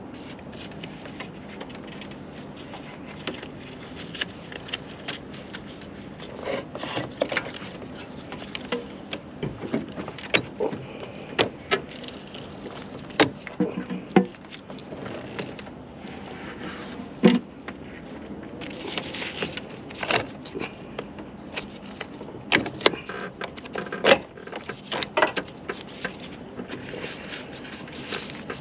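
Irregular clinks and knocks of hand tools and parts being handled during repair work, some in quick clusters and one louder knock past the middle, over a steady low background.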